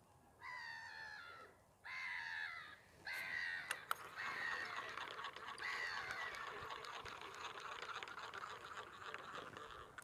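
Birds calling: three separate falling calls in the first few seconds, then a continuous jumble of many calls.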